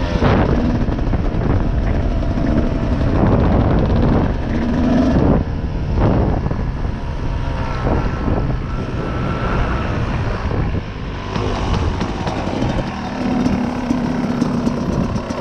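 Dirt bike engine revving up and down repeatedly while riding, over a constant rushing noise.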